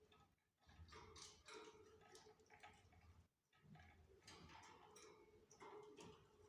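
Canaries moving about in their breeding cage: faint, irregular clicks and taps, several a second, over a faint steady hum.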